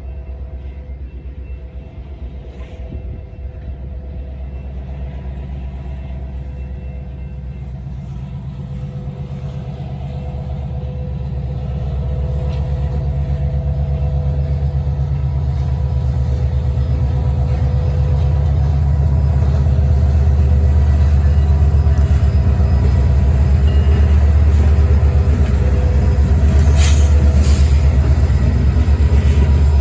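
EMD GP20C-ECO diesel locomotives running as they approach, their low engine drone growing steadily louder over the first two-thirds and then holding. Brief high squeals or hisses come near the end.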